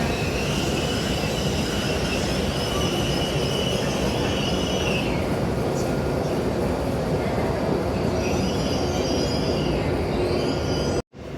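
Shinkansen train moving through the station: a steady rumble with high-pitched wheel squeal rising and fading over several seconds. The sound cuts off abruptly just before the end.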